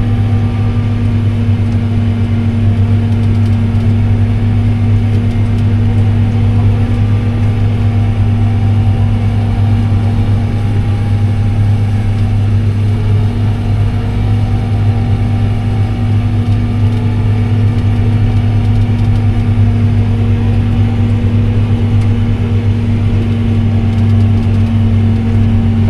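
Diesel engine of a large farm machine running at a steady speed, heard from inside the cab as a loud, even, low drone.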